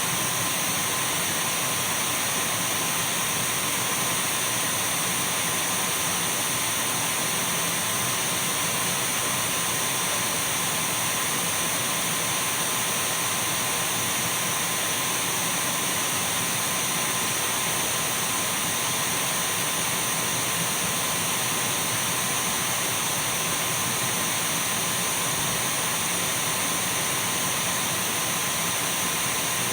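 Dyson V12 cordless stick vacuum running steadily: a constant whine over an even rushing of air, with no change in speed.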